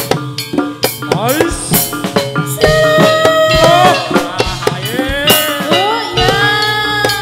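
Live Javanese folk music for a gedruk dance: drums and percussion beat a dense rhythm while a melody instrument slides up steeply, then holds long bending notes.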